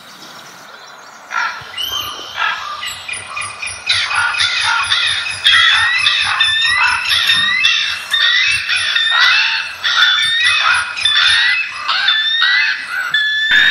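Many birds calling at once, starting about a second and a half in: repeated short rising chirps and a long, high, thin trill, over a faint low rapid pulse.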